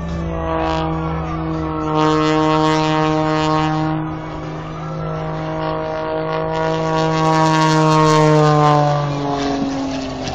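An aircraft engine with a steady, even drone that grows louder twice and drops in pitch near the end, as a plane passing by does.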